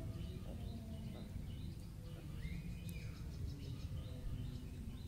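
Small birds chirping: many short chirps, with one longer whistle about two and a half seconds in, over a steady low rumble.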